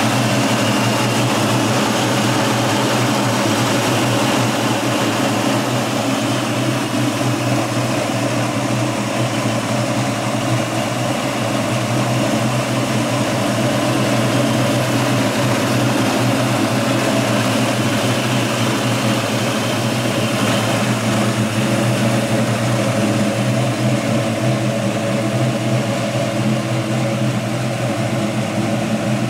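1970 Ford Mustang's V8 engine idling steadily, with no revving.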